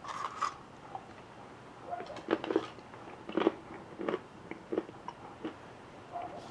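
Close-up chewing of a Hershey's Special Dark chocolate nugget with almonds: a run of sharp, irregular crunches, about six in all, roughly every half second to second.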